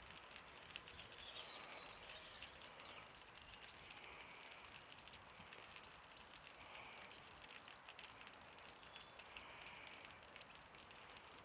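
Near silence: a faint, steady crackle of tiny ticks, with a faint short chirp every few seconds.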